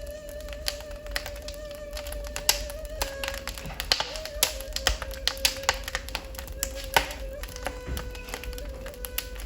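Wood fire crackling in a fireplace, with frequent irregular sharp pops. Under it a ney flute holds long, slow notes that step down slightly a few times.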